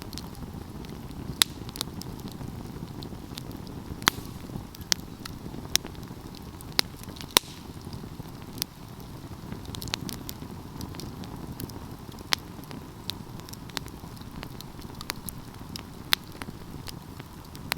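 Wood fire burning: a steady low rumble of flames with irregular sharp crackles and pops from the burning wood.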